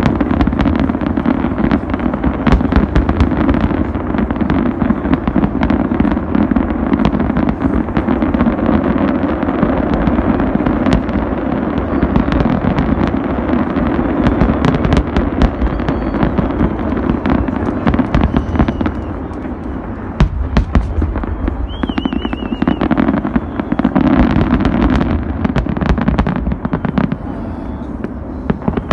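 Fireworks display going off in a dense barrage of rapid bangs and crackling over a low rumble, thinning out briefly past the middle, then another burst before it tapers off near the end.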